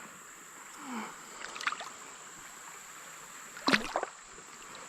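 Creek water running steadily, with a few brief sharp noises, the loudest a little before four seconds in.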